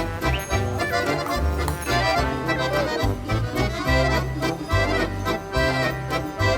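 Accordion playing a traditional folk tune, with a bass line stepping from note to note underneath the melody.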